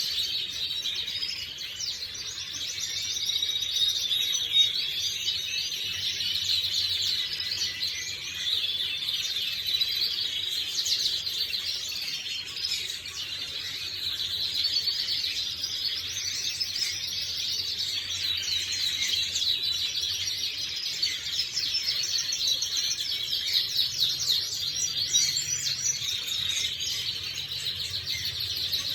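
Domestic canaries singing, a continuous stream of rapid trills and chirps with no pauses.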